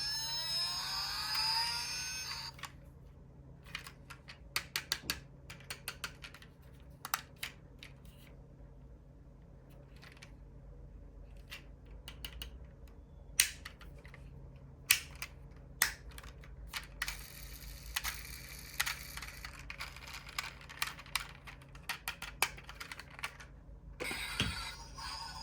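Irregular small clicks and taps of diecast model cars being handled, with a short stretch of music with gliding tones at the start and again near the end.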